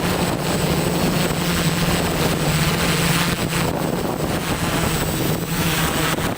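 ZeroUAV Steadi470 multirotor drone's propellers humming steadily, with strong wind buffeting and rushing across the microphone.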